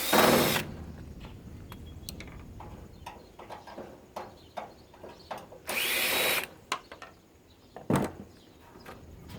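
A power drill backing out screws from a steel air-purifier housing. It runs in two short bursts, at the start and about six seconds in, with clicks of metal parts being handled between them and a single knock near the end.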